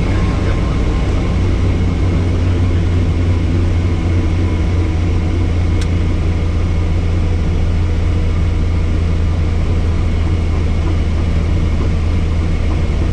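Helicopter running steadily, a loud, even low hum of engine and rotor, with a single sharp click about six seconds in.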